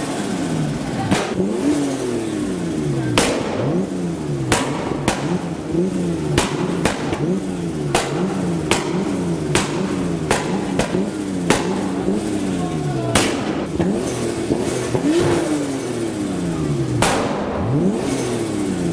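A car engine revved hard over and over, its pitch climbing and dropping about once a second, with sharp cracks between the revs.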